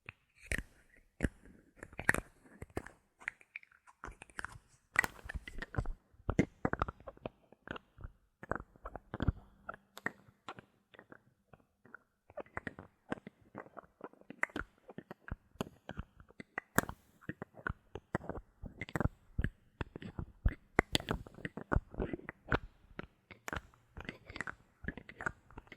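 Bottle caps handled close to the microphone, making rapid, irregular clicks and taps, with brief pauses between flurries.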